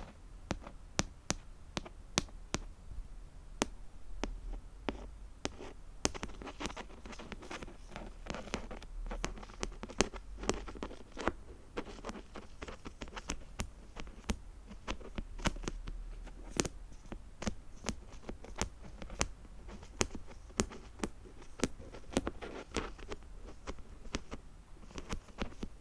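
Fingernails tapping and scratching on small hard objects close to the microphone: a string of sharp, irregular clicks, with denser scratching from about six to twelve seconds in and again near the end.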